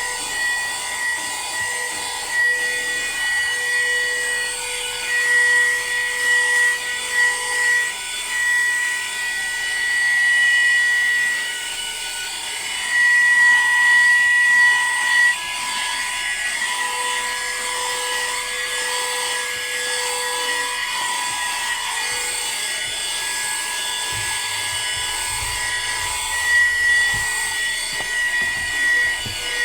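AGARO CV1079 12 V, 110 W handheld car vacuum cleaner running: a high motor whine over a rushing hiss of air. Its pitch steps slightly up and down several times.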